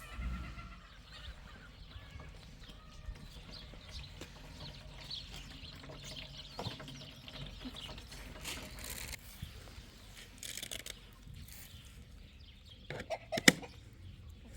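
Farmyard fowl calling, with one loud short call near the end.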